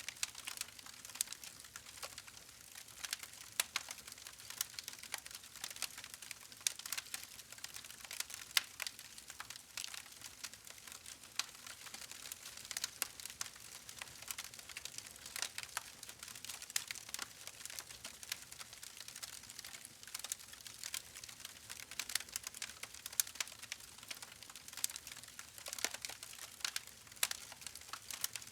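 Wood fire crackling: many small sharp pops and snaps at irregular intervals over a soft steady hiss.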